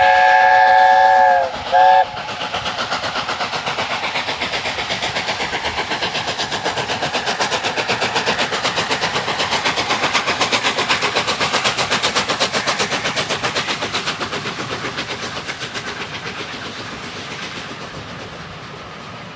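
Steam locomotive whistle, several notes sounding together, ending in the first second and a half, followed by a short second toot. Then the locomotive's rapid exhaust beats as it works hard up the gradient, growing louder to a peak and fading away near the end.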